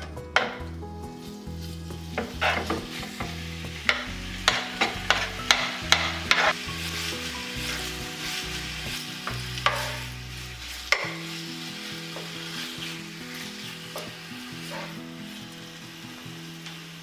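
Food sizzling in a hot pan as it is stir-fried, with a run of sharp knocks and scrapes from the utensil against the pan in the first half and a few more later.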